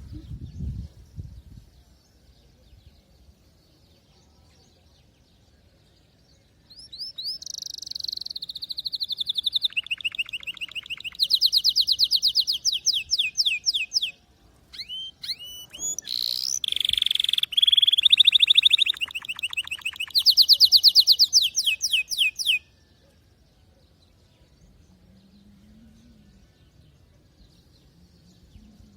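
Canary singing in long phrases of fast, high-pitched rolling trills. The song starts several seconds in, pauses briefly about halfway, and stops a few seconds before the end.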